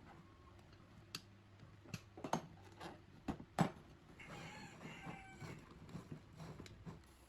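Hand work on small parts: a series of irregular light clicks and knocks, with a brief scraping rattle about four seconds in.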